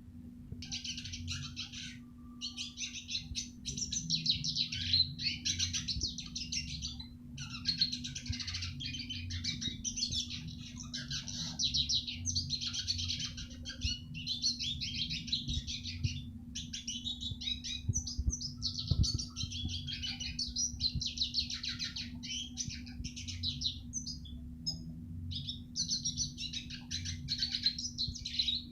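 Red siskin singing: long runs of rapid, high twittering song broken by short pauses, over a steady low hum.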